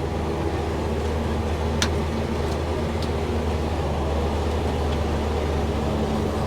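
Steady drone of a self-propelled sprayer's Cummins diesel engine, heard from inside the cab while it drives, with one sharp click about two seconds in.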